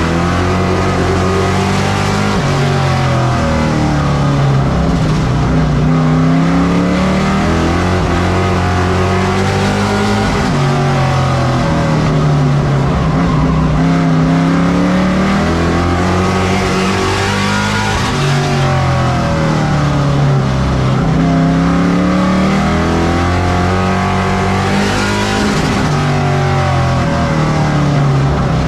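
Pro Truck race trucks' engines running hard on a short oval. The engine note climbs and then drops in a cycle about every seven to eight seconds as the trucks go on the throttle down the straights and lift for the turns.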